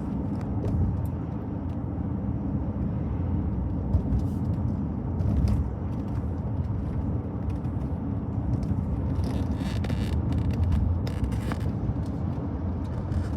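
Steady low road and engine rumble inside a moving car's cabin, with a few brief clicks or rattles.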